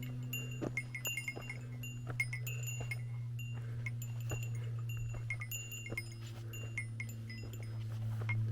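A small bell jingling irregularly, a few short rings a second, over a steady low hum.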